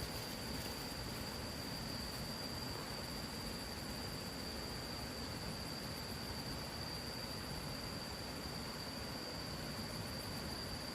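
Steady high-pitched insect drone of crickets or cicadas, one unchanging pitch, over a soft hiss of outdoor ambience.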